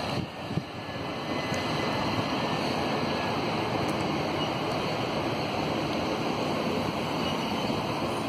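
Southeastern Class 375 electric multiple unit running past: a steady rush of wheels on rail and running noise.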